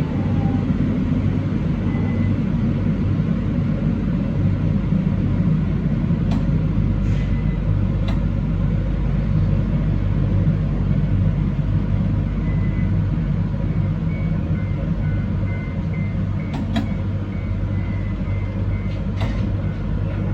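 A train on the JR Hakodate Main Line running at speed, heard from inside the front car: a steady low rumble of wheels on rail. A few faint clicks come through, and a faint high steady whine joins about halfway through.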